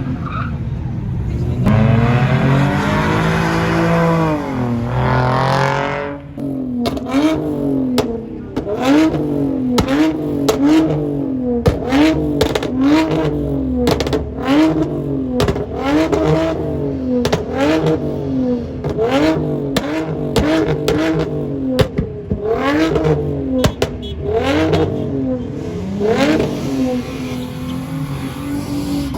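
A car engine revving hard once, then revved over and over, its pitch rising and falling about once a second for some twenty seconds, with sharp cracks among the revs. It settles near the end.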